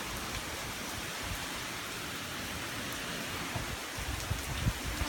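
Gusty wind and rain of a hurricane squall: a steady hiss, with low rumbles of wind buffeting the microphone growing stronger near the end.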